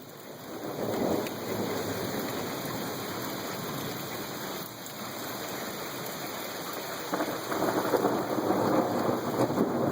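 Rain falling steadily with thunder rumbling; the sound swells about a second in and grows louder from about seven seconds in.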